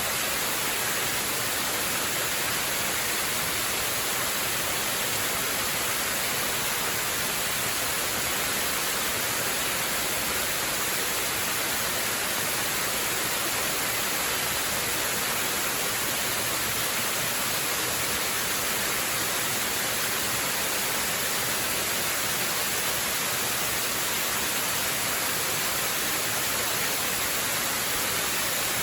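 Waterfall: the steady, unbroken rush of falling water, an even hiss that is strongest in the high end.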